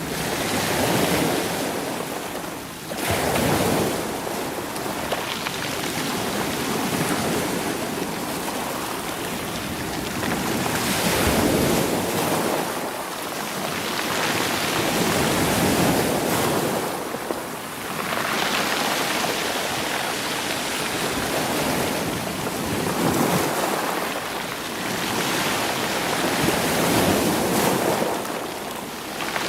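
Sea waves surging in and washing back over rocks and stones, swelling and ebbing every several seconds.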